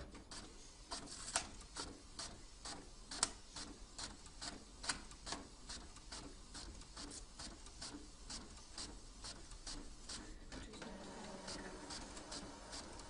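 A faint, steady run of short, light clicks or taps, about three a second, with a low hum coming in near the end.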